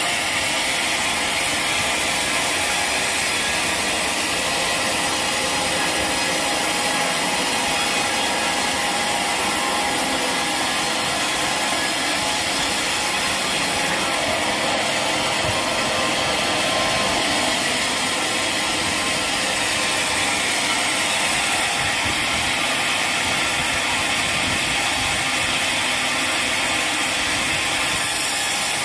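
Sawmill saw cutting through a mahogany log, with a steady, unbroken machine and cutting noise.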